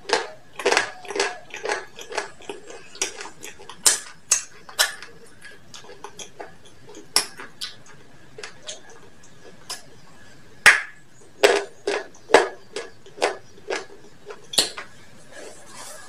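Close-miked eating of fried chicken: irregular crisp crunches and wet mouth sounds from biting and chewing, in quick runs with a quieter stretch about halfway through.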